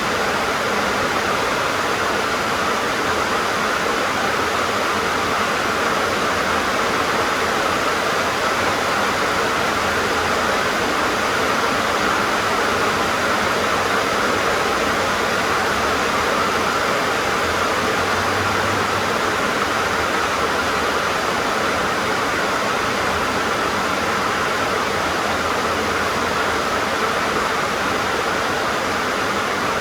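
Heavy rain drumming steadily on a tin roof, a dense, even hiss of drops on sheet metal.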